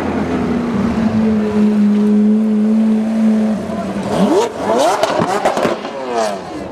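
Supercar engine held at a steady rev, then revved up and down several times about four seconds in, with exhaust pops and crackles as the revs drop.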